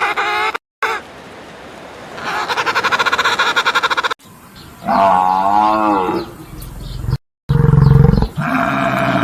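Animal calls from several short clips one after another, with abrupt cuts between them. A long wavering call comes in the middle, and a loud low call comes near the end.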